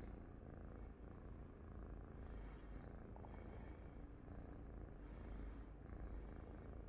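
Domestic cat purring steadily and close up, the purr swelling about once a second with its breathing.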